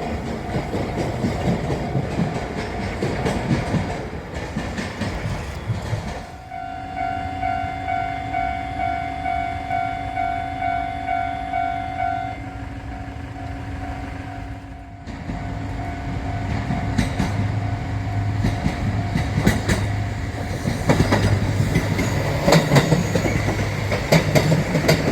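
Train rumbling, then a level-crossing warning bell ringing about twice a second for several seconds. After that a train passes, its wheels clattering over the rail joints, growing louder near the end.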